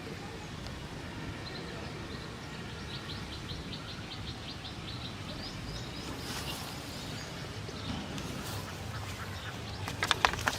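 A bird calling: a run of short, high chirps, about five a second, over a steady low rumble. A loud crackling noise starts near the end.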